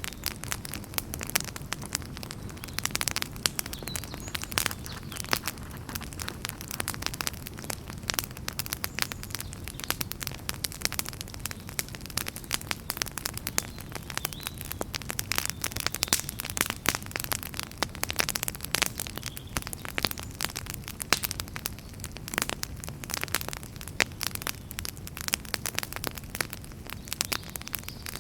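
Wood fire burning in a fireplace, crackling with dense, irregular pops and snaps over a steady low rumble of the flames.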